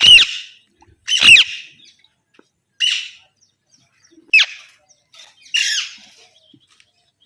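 Pet green parrots squawking: five loud, harsh, high calls spaced about a second or so apart, several sliding down in pitch at the end.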